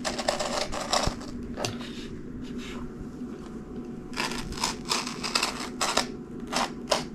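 Repeated short scratchy, rasping strokes, in a spell near the start and a longer one in the second half, over a steady low hum: material being scraped or rubbed by hand.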